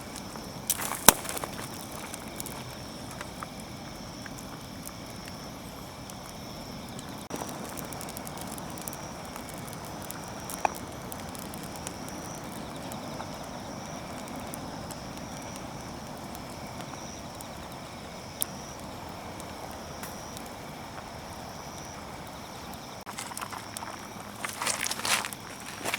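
Wood campfire burning, a steady low hiss with a few sharp pops and crackles spread through it. Rustling and handling noises come near the end.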